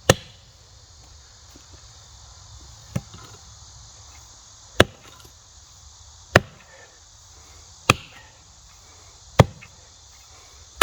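Hand tool chopping into the roots of a tree stump in the ground: seven sharp blows about a second and a half apart, the second one lighter. Crickets or other insects chirr steadily underneath.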